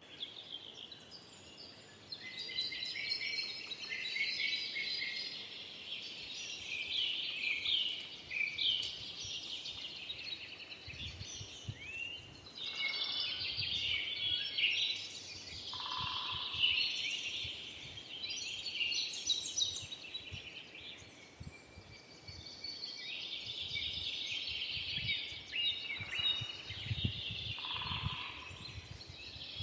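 A chorus of forest songbirds singing over one another in quick high chirps and trills, with a short lower call sounding twice.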